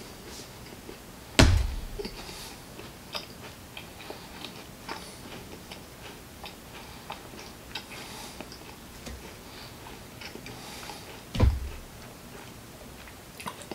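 Someone chewing a too-big bite of a chewy puffed-brown-rice protein bar, with small wet clicking mouth sounds, and a hand hitting a tabletop twice: two loud thumps about a second and a half in and again near the end.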